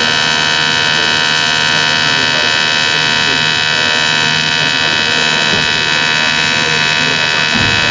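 TIG welding arc buzzing steadily, a continuous high-pitched electric buzz while the weld pool is held.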